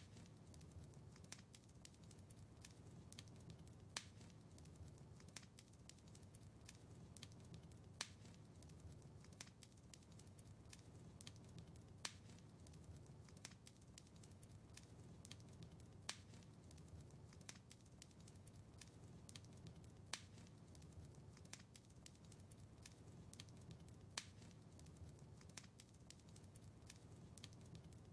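Faint wood fire crackling in a fireplace: a steady scatter of small crackles over a low rumble, with a sharper pop about every four seconds.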